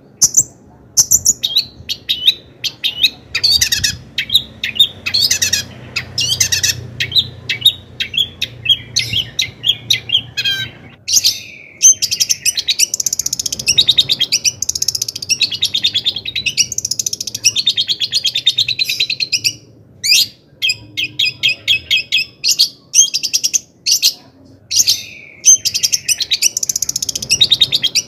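Long-tailed shrike singing in full voice: a fast, unbroken run of sharp, high chirps, trills and harsh notes, varied from phrase to phrase and packed with mimicked calls of other birds, with only a few brief pauses.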